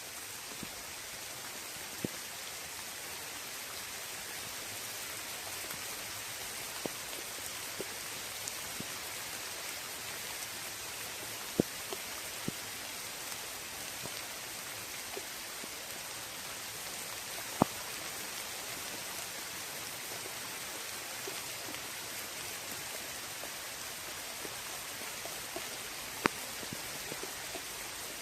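Rain shower falling steadily on a lake, an even hiss with a few sharper single drop ticks now and then.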